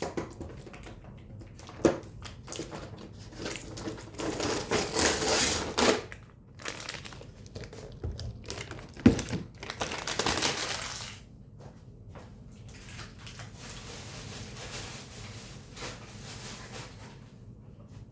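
Plastic packaging of disposable sweeper pads crinkling in rustling bursts as the pads are handled, with a couple of sharp clicks.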